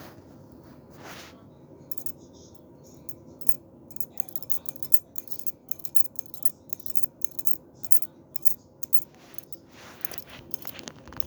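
Male and female cicadas clicking together: a rapid, irregular run of sharp clicks that starts about two seconds in and thins out near the end.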